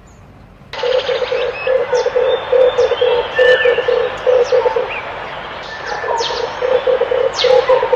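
Red turtle dove calling: a rapid, pulsing run of low coos, starting about a second in, with small birds chirping high over a steady hiss.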